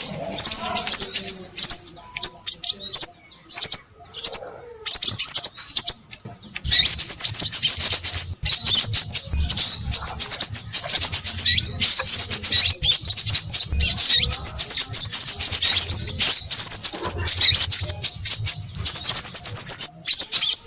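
A noisy flock of sepah raja minivets giving rapid, high-pitched chirping calls, a bird-lure recording. The calls are sparse and broken for the first few seconds, then run as dense, near-continuous chatter from about six or seven seconds in.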